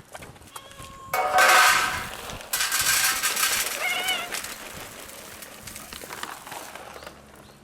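Dry cat food rattling and scattering in two loud bursts, with cats meowing, one short wavering meow about four seconds in.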